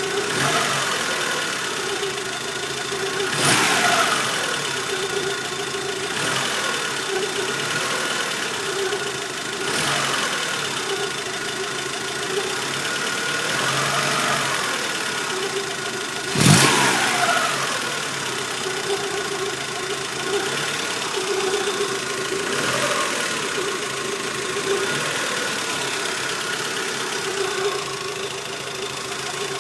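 Mk2F Volkswagen Polo running with an unexplained strange noise: a wavering steady tone throughout, with three sharp knocks, the loudest about halfway through.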